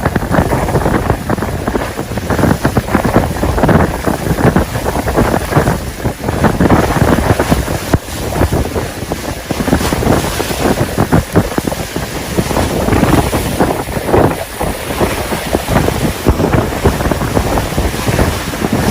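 Strong wind buffeting the microphone in storm footage, a loud constant rush with gusty flutter and rumble.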